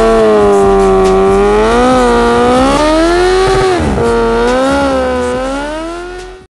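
Motor vehicle engine, most likely a motorcycle, held at high revs with a steady pitch that swells and dips a little a few times, fading out near the end.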